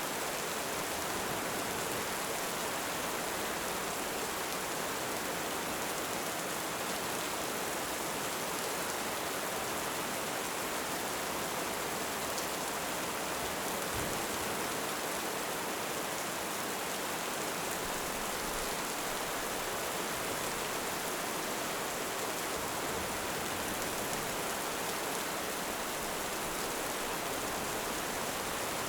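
Heavy rain falling in a steady, even hiss, with no breaks or swells.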